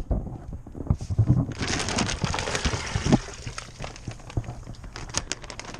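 A bag being handled and opened, rustling and crinkling for a second or two about a second and a half in, with a few low knocks around it.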